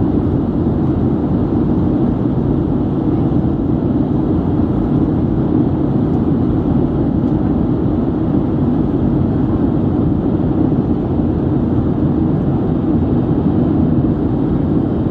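Steady cabin roar of a Boeing 737-900 in flight after take-off: its CFM56 jet engines and the airflow past the fuselage make an even, unbroken noise at a constant level.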